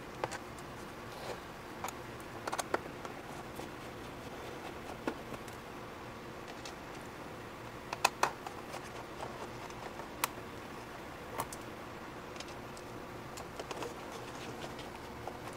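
Irregular light clicks and taps of a screwdriver and the plastic bottom cover of a laptop being unscrewed and pried open, with a sharper pair of clicks about eight seconds in.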